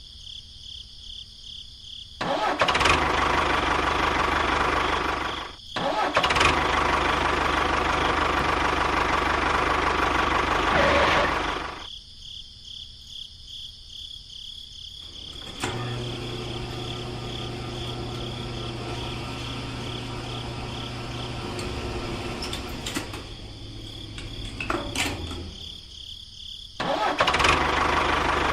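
A small engine or motor running in several short clips that cut in and out abruptly, louder in some stretches and quieter with a steady low hum in others.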